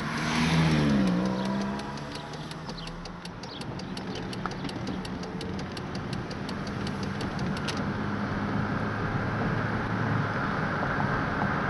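SUV engine heard from inside the cabin, revving up as the vehicle pulls away from a stop, then running steadily under road noise that builds with speed. A turn signal clicks evenly through the turn and cuts off suddenly about eight seconds in.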